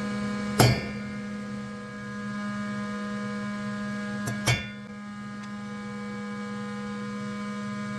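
Two sharp hammer blows on steel stamping punches, about half a second in and again about four and a half seconds in, each with a brief ring, over a steady electrical hum. They are stamping the Porsche 911SC cylinder head with a minus-0.25 mm mark, recording the head surface machined off.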